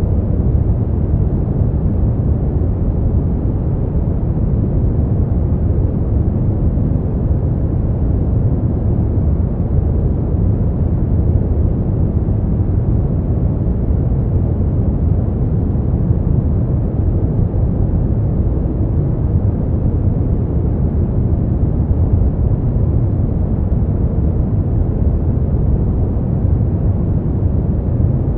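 Continuous sleep noise with no changes, deep and muffled: most of its weight is in the bass and there are no highs.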